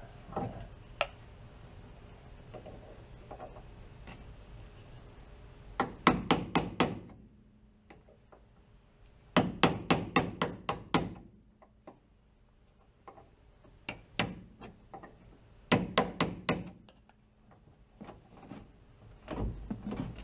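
Small hammer tapping in the pin that holds a VW Beetle door handle, in several quick runs of light metallic strikes with pauses between them.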